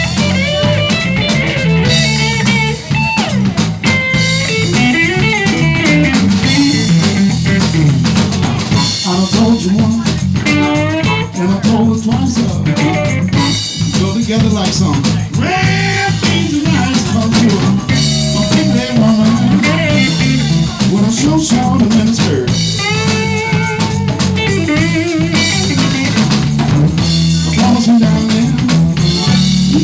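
Live blues-rock band playing an instrumental passage: drum kit and bass holding a steady groove under a lead line that bends and wavers in pitch.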